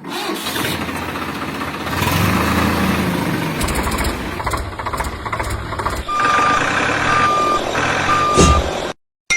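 A vehicle engine running, with a reversing alarm beeping three times, about one short beep a second, near the end; the sound then cuts off abruptly.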